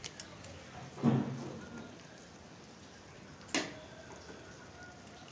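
Masala frying in oil in a kadai with a steady sizzle as raw eggs go into it. A soft thud comes about a second in and a sharp click at about three and a half seconds.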